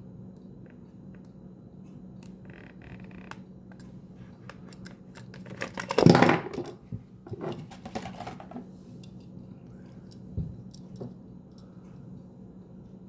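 Plastic packaging and a small diecast model truck being handled: scattered light clicks and taps, a loud crackling rustle about six seconds in, a shorter one around eight seconds, and a single thump a little after ten seconds.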